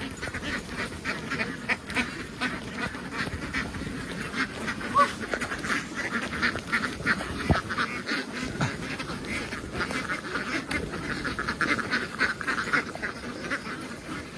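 A large flock of domestic ducks quacking all at once, a dense, continuous din of overlapping calls.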